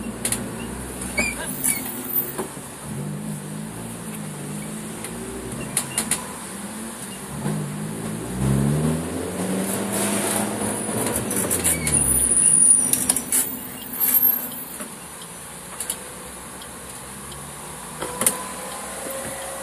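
Suzuki Swift Sport's four-cylinder engine heard from inside the stripped, caged cabin, running at low revs, then revving up and back down between about eight and thirteen seconds in. The engine sound drops away about fifteen seconds in, with a few sharp clicks after.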